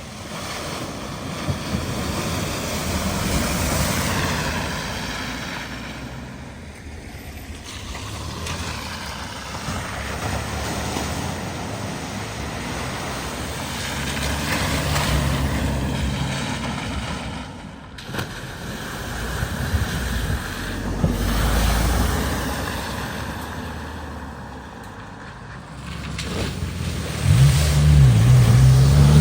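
Vehicles driving through a flooded ford: water splashing and surging in several swells as they pass, with engine noise underneath. An engine revs up loudly near the end.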